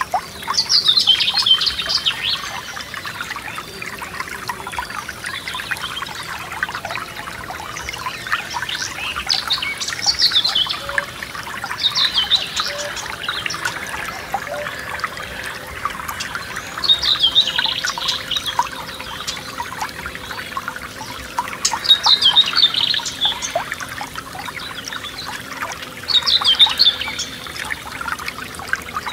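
Forest stream trickling and splashing steadily, with a songbird singing a short, high phrase six times, each about a second long and dropping in pitch.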